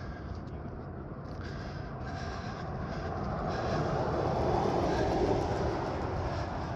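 Train rumbling past on the railroad tracks, swelling to its loudest about five seconds in and then easing off.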